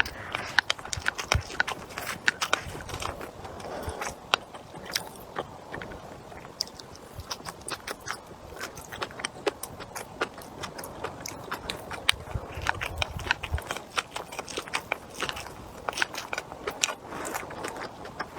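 A person eating close to the microphone: steady chewing and biting, with many sharp irregular clicks and crunches.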